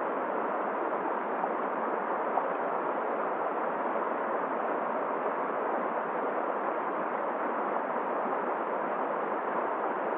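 Steady, even rushing of a cold river's flowing water mixed with winter wind, with no change in level.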